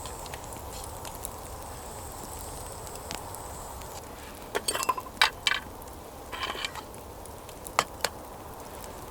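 A few short clusters of sharp clicks and light clinks, some with a brief ringing tone, over a steady background hiss, then two single sharp clicks near the end.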